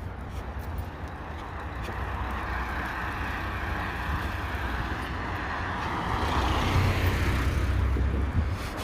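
A car passing on the road, its tyre noise building over several seconds and easing off near the end, with wind rumbling on the microphone.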